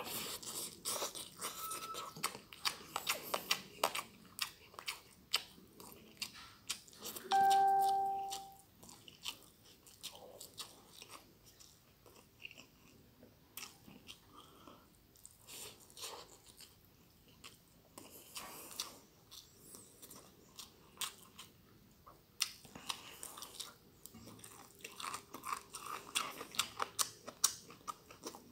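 A person chewing and biting mouthfuls of stir-fried glass noodles with goat meat, a string of small wet clicks and crunches. About seven seconds in, a short steady tone lasting a second or so is the loudest sound.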